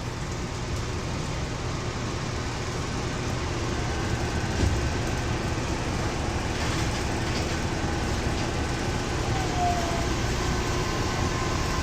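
Steady running noise inside a Yui Rail monorail car in motion: an even low rumble with a faint steady high tone over it.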